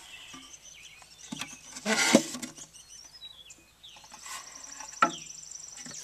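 Birds chirping, with a high, rapid trill in the last couple of seconds. A loud rustling knock of handling about two seconds in and a sharp click near the end.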